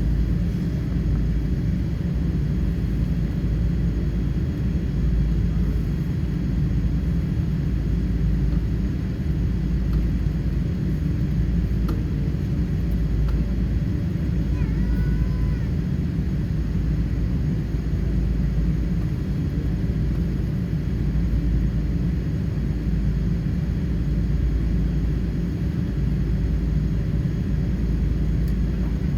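Steady low rumble of cabin noise inside a Boeing 777-300 airliner, the engines running evenly with no change in loudness.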